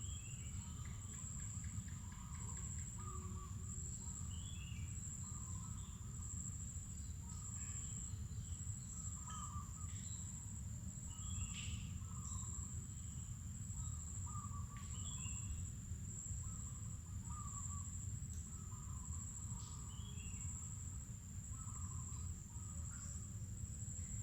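A steady high-pitched insect drone, with birds giving short calls that repeat every second or two and occasional higher chirps, over a low steady rumble.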